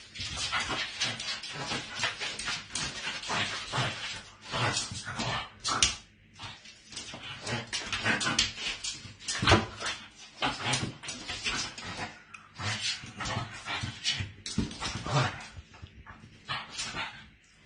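A dog making short, repeated vocal sounds, with brief pauses between runs.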